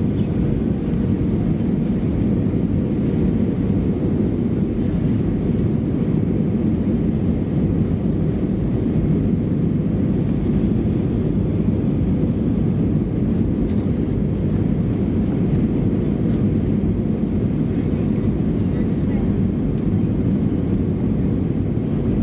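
Steady cabin noise of an Airbus A320-214 in flight, heard from a window seat behind the wing: a constant low rush of its CFM56 engines and the airflow over the fuselage, with a faint steady hum.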